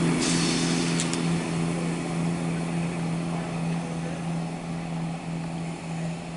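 Class 170 Turbostar diesel multiple unit pulling out, its diesel engines making a steady low drone that slowly fades.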